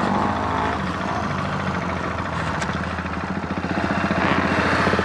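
Motorcycle engine running at low revs with a steady, rapid firing pulse, growing a little louder about four seconds in.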